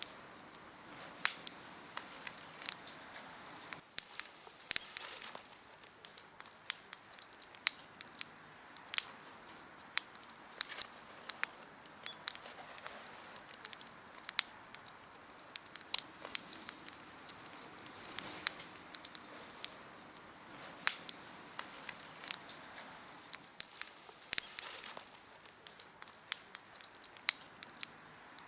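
Wood fire burning, with irregular sharp crackles and pops over a low steady hiss.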